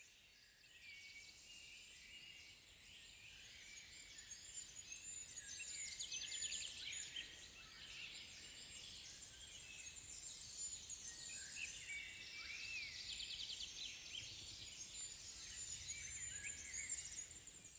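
Faint dawn chorus in a forest: many songbirds singing and calling at once, with rapid trills among the chirps.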